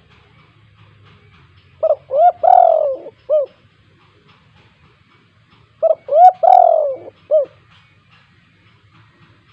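Spotted dove (tekukur) cooing: two identical phrases about four seconds apart. Each is a couple of short notes, then a longer coo that falls at its end, then a short closing note.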